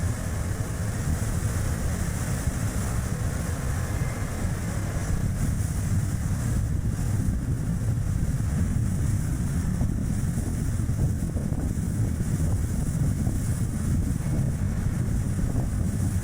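Steady low rumble of strong wind buffeting the microphone, mixed with road and tyre noise from a Chevrolet Spark light car driving along.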